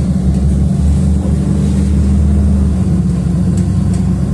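City bus engine running steadily, heard from inside the passenger cabin as a loud low drone; the lowest tone shifts a little under three seconds in.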